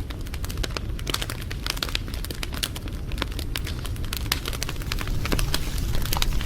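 Wood fire crackling, with many sharp pops and snaps over a low rumble of flames, getting a little louder near the end.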